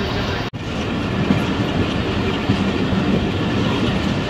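A passenger train running on the track: a steady rumble and rattle of wheels and carriages, broken for an instant about half a second in.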